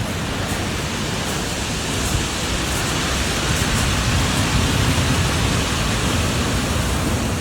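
Ocean surf washing on a beach as a steady rush, swelling a little a few seconds in, with wind on the microphone.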